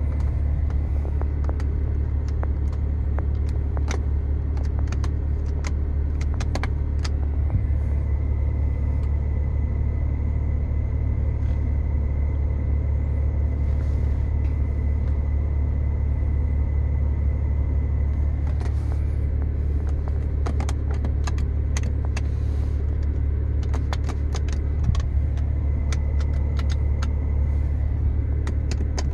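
BMW E90's engine idling, heard from inside the cabin as a steady low rumble, with scattered light clicks over it.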